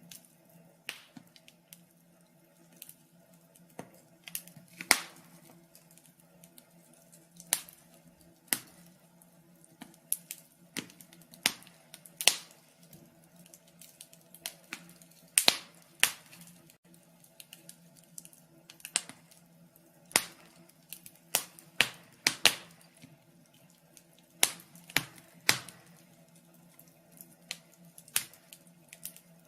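Wood fire crackling: irregular sharp pops and snaps, a few louder ones standing out, over a faint steady hum.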